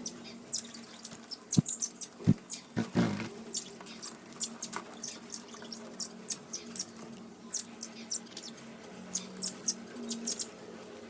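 Pet lovebirds making many short, high-pitched chirps and squeaks, coming irregularly several times a second, over a faint steady hum.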